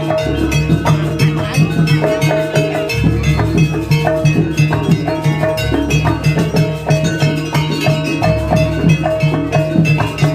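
Traditional Banyuwangi ensemble music: struck metal pitched percussion ringing short repeated notes in a brisk, steady rhythm over drums and sustained low tones.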